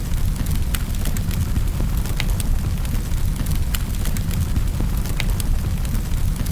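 Wood fire crackling in a fireplace: a steady low rumble with sharp pops and snaps at irregular intervals, several a second.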